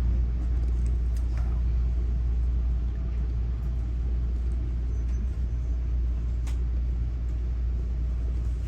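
Steady low rumble of a bi-level commuter train heard from inside the passenger car, with a faint click about two-thirds of the way through.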